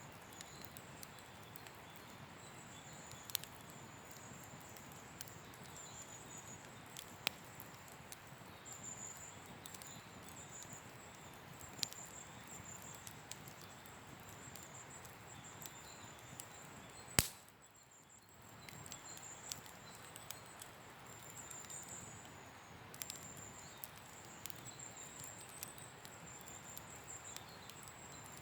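Faint campfire crackling: scattered sharp pops of burning wood, the loudest about 17 seconds in, over a steady high-pitched insect trill.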